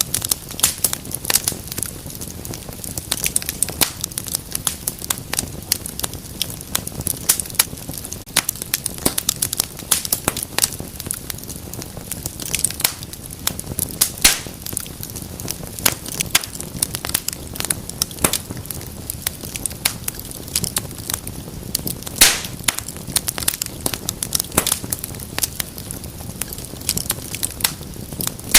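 Wood fire burning in a fireplace, crackling and popping: many irregular sharp snaps of different loudness over the soft steady rush of the flames.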